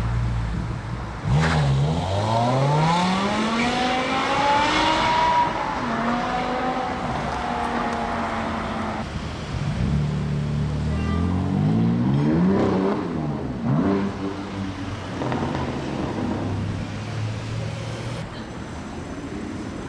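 BMW M3 F80's twin-turbo inline-six, through a loud custom M Performance exhaust, pulling hard with its pitch climbing steadily for a few seconds, then holding. About halfway through it gives several quick rising-and-falling revs, then settles to a lower steady note.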